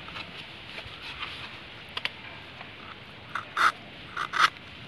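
Knife cutting and scraping through a folded coconut leaf: a click about two seconds in, then two short scraping cuts near the end, over a faint steady hiss.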